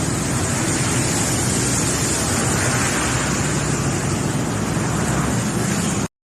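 Steady rushing noise of floodwater across a flooded road, mixed with traffic, cutting off abruptly about six seconds in.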